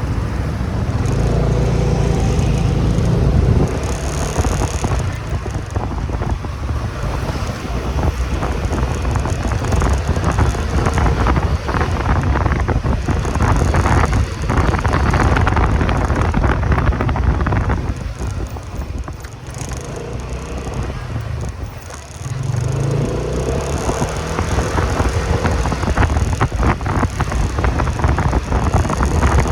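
Motorcycle engine running while riding, with wind noise on the microphone. The engine and wind ease off for a few seconds about two-thirds of the way through, then pick up again.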